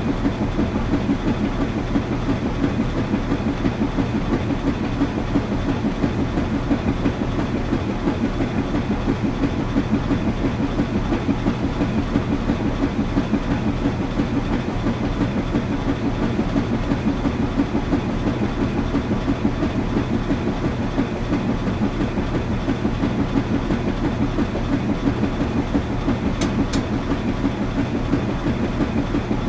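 Washing machine running steadily, with an even rhythmic pulse over a low hum. Two faint clicks near the end.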